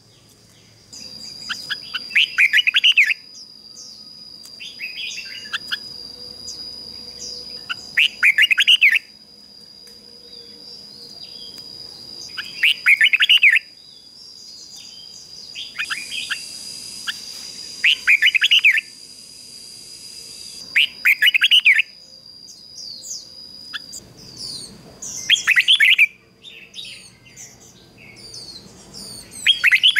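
Red-whiskered bulbul singing, loud short warbled phrases repeated about every three seconds, nine in all. A steady high thin whine runs beneath the song until a few seconds before the end.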